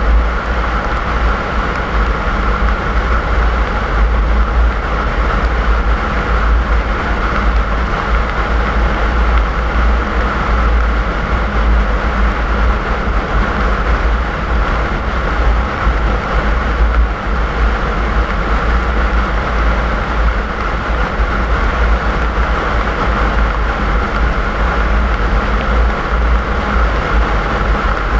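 Car driving along a snowy road: a steady rush of road and engine noise with a heavy low rumble underneath, unbroken throughout.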